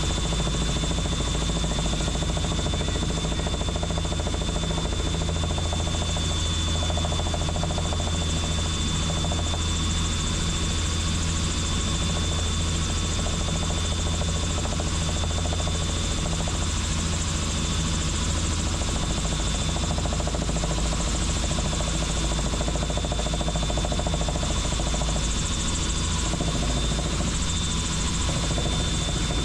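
Helicopter in flight: a steady, unbroken drone of rotor and engine, with a thin high whine held throughout.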